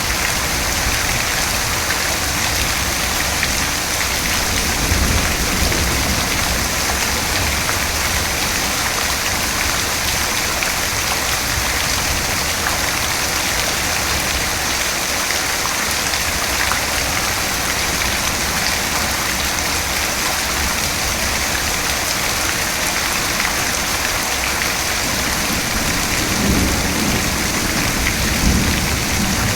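Steady rain falling, with low thunder rumbling about five seconds in and again near the end.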